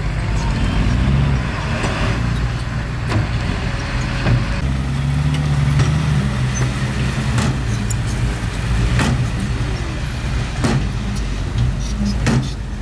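Heavy diesel engine of a bulldozer running under load, its low note shifting about four and a half seconds in, with several sharp metallic knocks and clanks scattered through.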